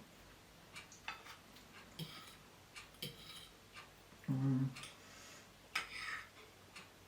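Cutlery clinking and scraping against a plate, several light scattered clicks while eating a ready meal in gravy. A short low hum of a voice comes about halfway through.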